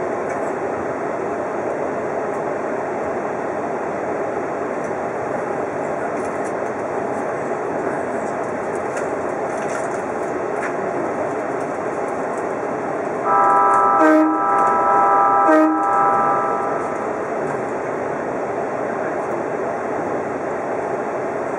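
Odakyu Romancecar VSE 50000-series electric train running at speed, a steady rumble of wheels on rail heard from inside the train. About thirteen seconds in, a loud sustained tone made of several steady pitches sounds for about four seconds, with two sharp clicks during it.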